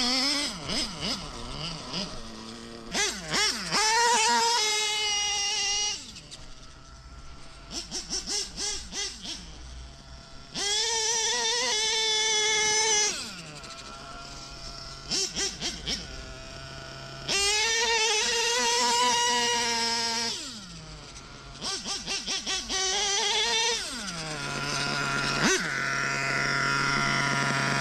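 Modified Novarossi 0.21 nitro engine in a Traxxas Revo RC monster truck, screaming at high revs in three full-throttle runs of about three seconds each, each ending in a falling pitch. Between the runs come quick throttle blips and lower running. It settles into a steady idle near the end.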